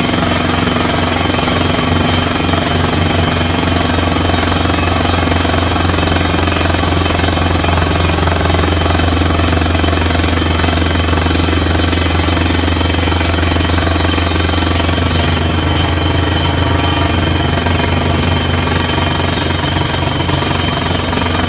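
Borewell drilling rig running steadily under load: a loud, constant engine and compressor drone with the rapid percussive hammering of the drill in the bore.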